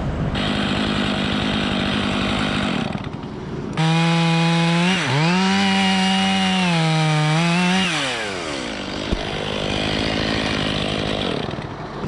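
Two-stroke chainsaw running at full throttle and cutting for about four seconds, its pitch dipping once as it loads in the wood, then falling as the throttle is released. A steady engine hum runs under it before and after.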